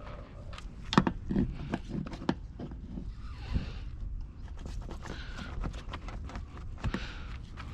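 Scattered clicks, knocks and scrapes of hand tools being picked up and used, with the sharpest knock about a second in, over a low steady rumble.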